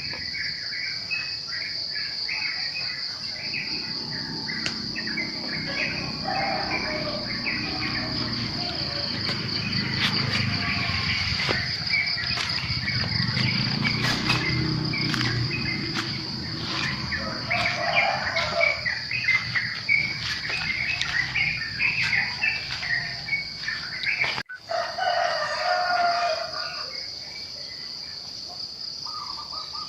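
A morning chorus of small birds chirping over a steady, high-pitched insect trill. A low rumble sits under it for a stretch in the middle, and the sound cuts out for an instant near the end.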